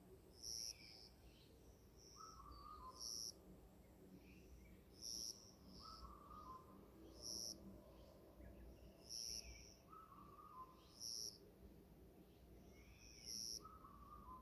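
Birds calling in a forest. A short, high call repeats about every two seconds and is the loudest sound, and a lower, falling call comes in every few seconds over a faint background.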